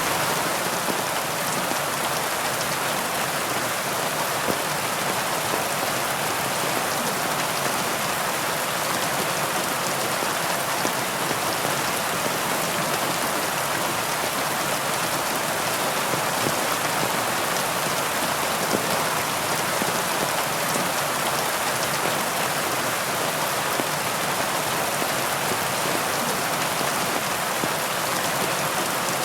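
Steady heavy rain falling in a dense, even hiss, with fine scattered drop ticks.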